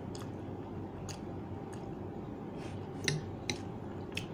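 A person chewing a mouthful of instant noodles, with scattered faint clicks over a steady low background hum.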